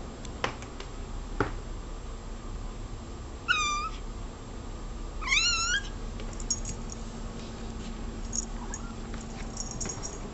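A domestic cat meowing twice: a short meow, then a louder, longer one that rises and falls in pitch. A few light clicks come before the meows.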